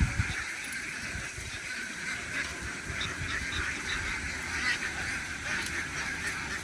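A large flock of domestic ducks quacking all together in a continuous, dense chatter.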